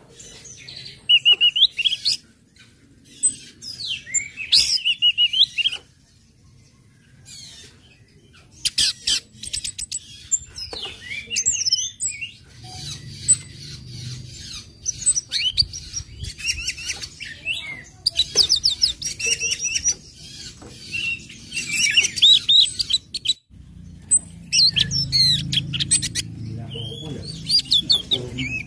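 Orange-headed thrush singing: bursts of quick, high chirps and trills with short pauses between them.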